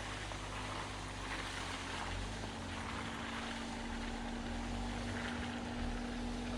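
Jeep Willys engine running at a steady pitch while driving off-road, a constant hum and low rumble under a hiss of wind or tyre noise.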